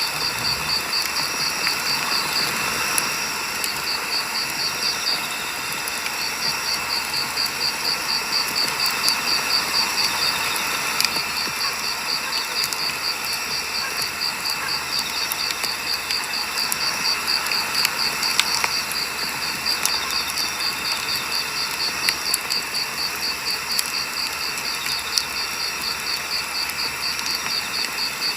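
Firewood burning in a campfire: a steady hiss with scattered sharp crackles and pops. Through it an insect chirps in a rapid, even, high-pitched trill, with a short break a couple of seconds in.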